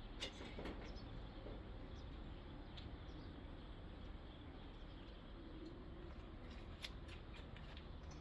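Faint scattered clicks and small crackles over a low steady background hum, of a kitten chewing and eating a mouse.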